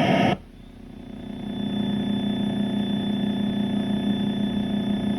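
Light aircraft's piston engine and propeller droning steadily as heard through the cockpit intercom headset, swelling over the first couple of seconds and then holding. A brief crackly intercom burst cuts off right at the start.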